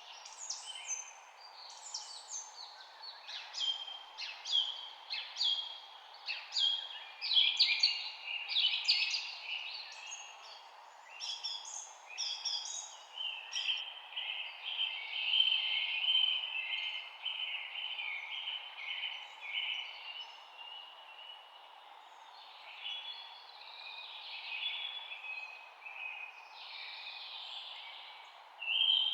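Several songbirds chirping and singing together in quick, overlapping calls, with a long trill near the middle, over a steady background hiss.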